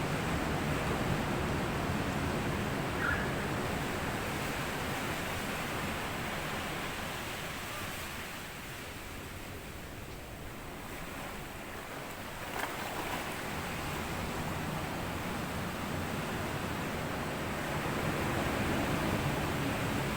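Sea waves washing in over a sandy shore, a steady rush that eases off in the middle and builds again. A short click comes about two-thirds of the way through.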